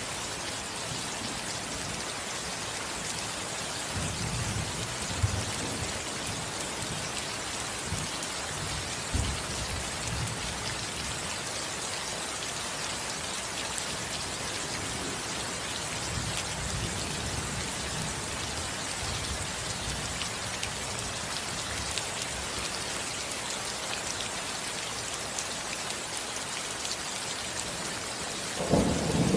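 Steady rain falling on a house roof, with low rumbles of distant thunder a few times and a louder roll of thunder starting near the end.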